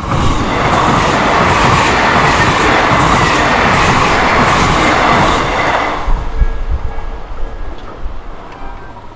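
An Odakyu electric commuter train passing close through a level crossing: a loud rush of wheel and rail noise that starts abruptly and holds for about six seconds, then fades with scattered thumps as the last cars go by.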